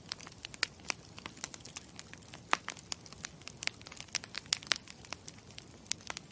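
Campfire crackling: a steady hiss with frequent, irregular sharp pops and snaps.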